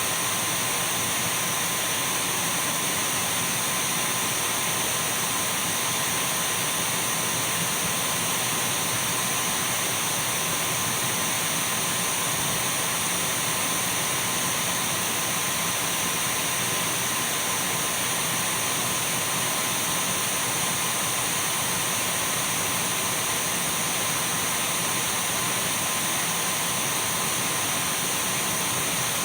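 Dyson V12 cordless stick vacuum running steadily: an even rush of air with a constant high motor whine.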